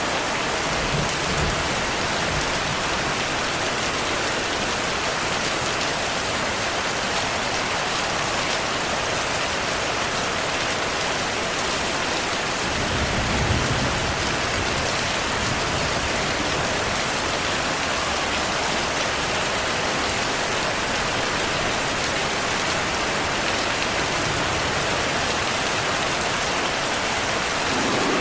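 Steady heavy rainfall, with a low thunder rumble about thirteen seconds in and a fainter one near the start.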